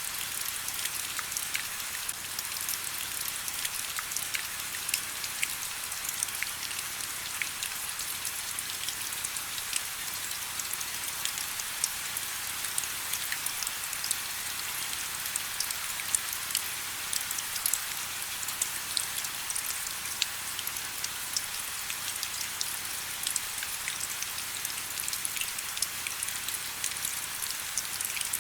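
Steady rain: an even hiss of falling rain with many sharp ticks of single drops striking close by.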